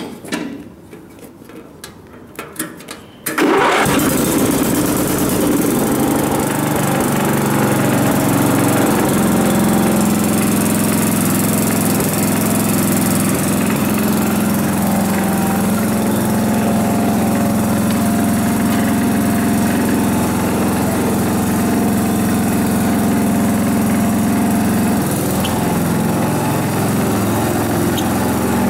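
Murray 10-horsepower riding mower engine starting about three seconds in, after a few clicks and knocks, then running steadily and loudly.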